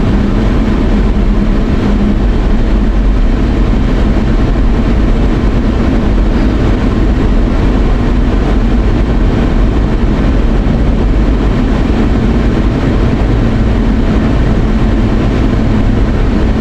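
Steady road and engine rumble heard inside a moving car's cabin, heavy at the low end, with no distinct events.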